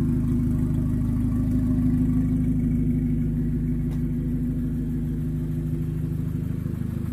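Volkswagen Golf R's turbocharged four-cylinder engine idling steadily, heard from behind at the twin centre exhaust tips.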